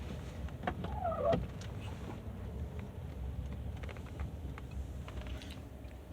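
Steady low rumble of a car heard from inside the cabin, with a few light clicks and a short squeak about a second in.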